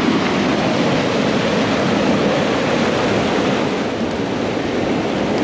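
Loud, steady rushing of river water tumbling over rocks and falls.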